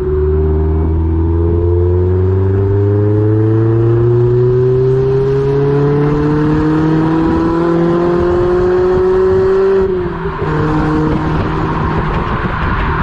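Mazda MX-5 ND's four-cylinder engine through an Ulter sport exhaust, accelerating with its pitch rising steadily for about ten seconds. It then dips briefly and settles at a lower pitch, as at a gear change, before cutting off suddenly near the end.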